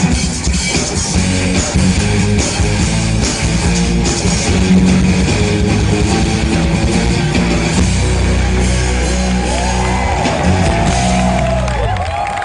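A live pop-rock band with electric guitar, bass and drums plays the closing bars of a song, ending on a held final chord that cuts off near the end. Whistles from the audience rise over the last few seconds.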